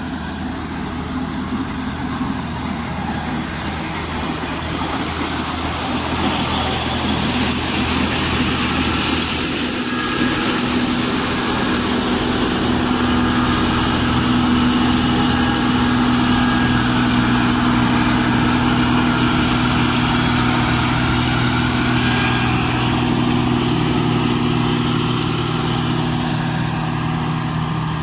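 New Holland 8080 combine harvester running steadily, a constant engine drone with machinery noise over it, growing a little louder over the first dozen seconds and then holding.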